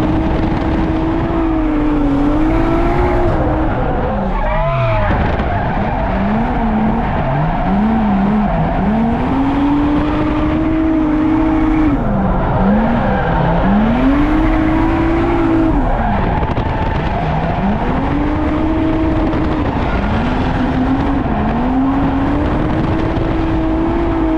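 Toyota JZX100 drift car's engine heard from inside the cabin, its revs climbing and falling again every couple of seconds as the throttle is worked through a drift, with one deep drop in revs about four seconds in. Tyres skid and squeal under the engine.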